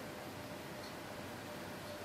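Essex Miniature Mark II hand-crank chain-stitch sewing machine being cranked slowly, giving light ticks about once a second over a steady hiss.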